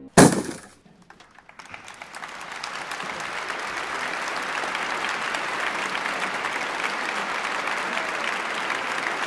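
A short, loud hit just after the start, as the toy drops onto the carpet, fading within half a second. Then applause swells up over about three seconds and holds steady.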